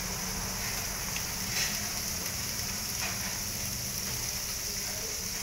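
Bean sprouts and greens sizzling in hot oil in a wok: a steady hiss, with a few faint clicks.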